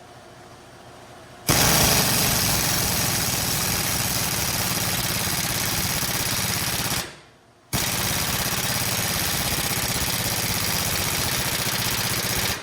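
Air-powered tool hammering on the truck's leaf-spring bushing bracket in two long bursts, the first starting about a second and a half in, with a short pause just past the middle. The heavy air use is running the shop compressor's pressure down.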